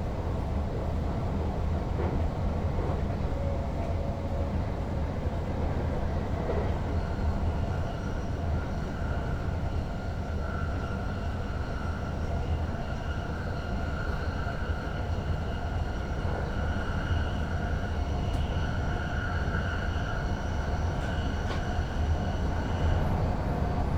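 NS Sprinter Lighttrain electric multiple unit running, heard from the driver's cab: a steady low rumble, joined about a third of the way in by a high, steady whine that fades out near the end.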